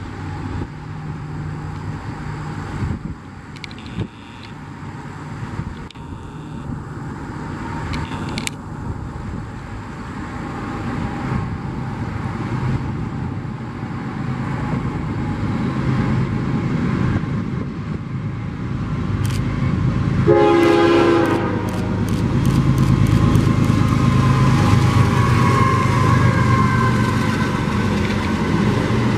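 A CSX train drawing closer, its rumble growing steadily louder, with one short blast of the locomotive horn about two-thirds of the way through. A fast run of clicks follows the horn as the train comes on.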